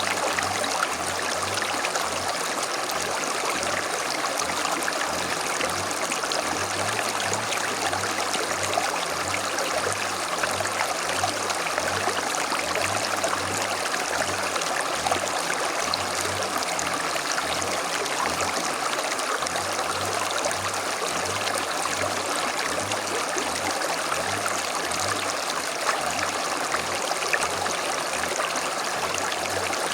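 Creek flowing steadily, a continuous rush of running water.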